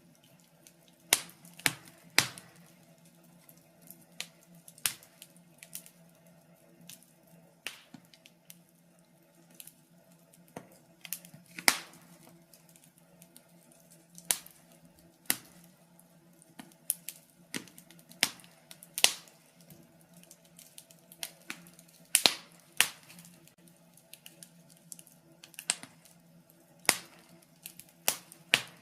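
Wood fire crackling, with sharp irregular pops and snaps a second or two apart, some loud and some faint, over a quiet low hum.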